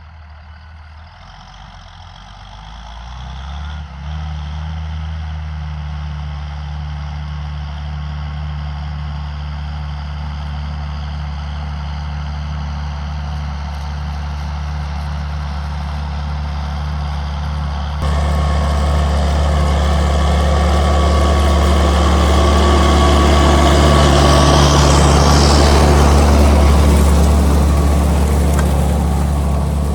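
John Deere 7800 tractor's six-cylinder turbo diesel running steadily under load while pulling an Amazone Catros+ disc harrow. The engine grows louder over the first few seconds. About halfway through it jumps louder, with more hiss and rattle over the engine note.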